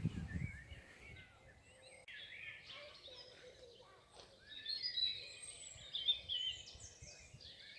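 Several small birds singing and chirping over each other, thickening from about two seconds in.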